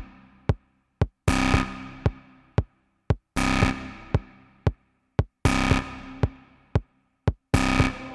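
Ambient techno played live on synthesizer and drum machine. A chord stab hits about every two seconds and fades away, with short, sharp percussive ticks between the stabs and near-silent gaps in the pattern.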